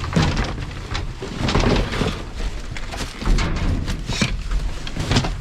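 Rummaging through trash in a dumpster: irregular rustling and crinkling of bags and packaging with scattered knocks, over a low rumble of wind or handling on the microphone.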